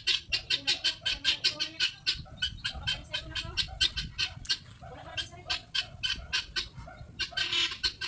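Bird calls: a rapid, evenly spaced run of short high chirps, about five a second, with fainter lower notes beneath.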